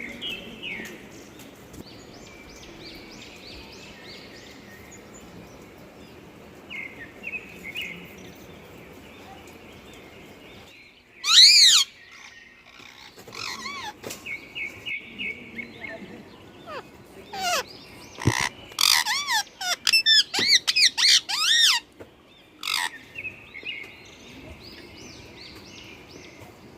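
Ringneck parakeets calling: one loud screech about eleven seconds in, then a run of quick, repeated screeches a few seconds later. Softer high chirping carries on underneath.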